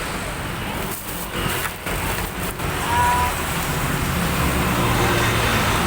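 Road traffic noise: a motor vehicle rumbling past, louder in the second half, with a brief voice in the background.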